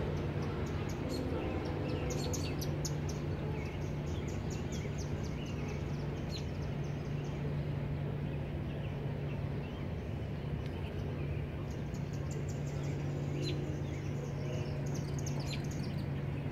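Distant CSX freight train running past a grade crossing, a steady low rumble that thins out near the end. Quick high chirps come in short runs over it.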